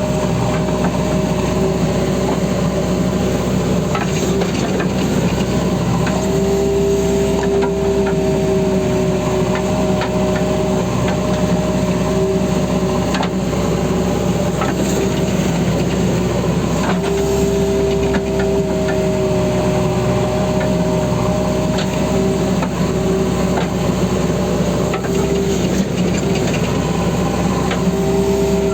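JCB backhoe loader working: its diesel engine runs steadily with a whine that steps up slightly in pitch about every ten seconds as the machine works under load, with scattered knocks and scraping.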